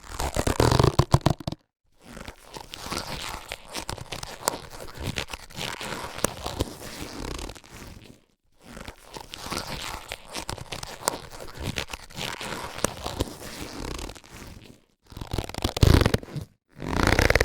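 Latex surgical gloves being handled: long stretches of crinkly rubbing full of small crackles, broken by a few brief silences. There are louder, shorter bursts at the start and again near the end.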